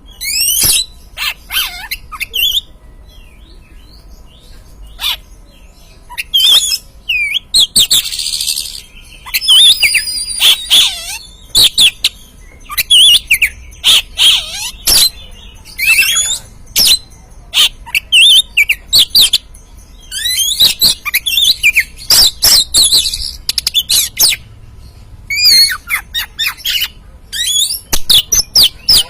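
Oriental magpie-robin (kacer) singing loud phrases of sharp whistles and quick chattering notes, broken by short pauses, with a harsh buzzy stretch about eight seconds in.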